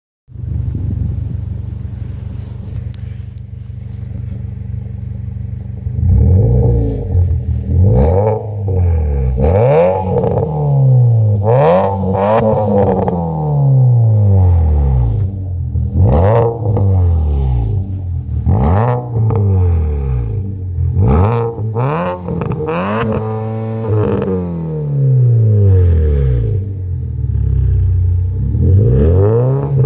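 Kia Cerato Koup engine breathing through a 4-2-1 exhaust header, idling steadily, then revved up and let fall back about nine times from about six seconds in, with one longer held rev near the middle.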